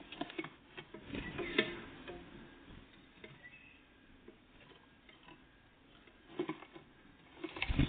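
Great tits and blue tits pecking and tapping at food: irregular sharp clicks and taps, bunched in the first couple of seconds and again near the end, with a faint brief chirp in between.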